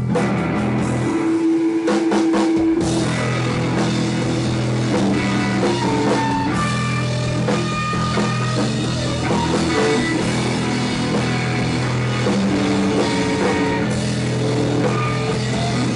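Live psychedelic rock band playing an instrumental passage on guitar and drum kit, loud and continuous, with long held notes under a melodic line.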